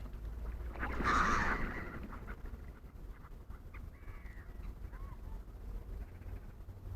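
A crow giving one loud, harsh caw about a second in, followed by a few fainter, short bird calls.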